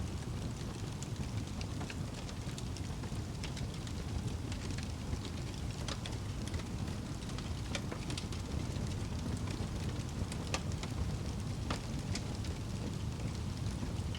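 Wood fire burning in a fireplace: a steady low rush of flame with irregular sharp crackles and pops.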